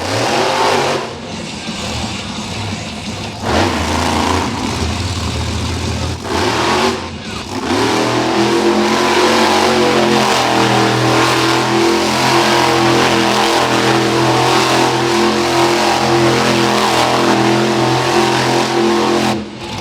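Monster truck engine revving hard, its pitch rising and falling for the first several seconds, then held steady at high revs for the rest.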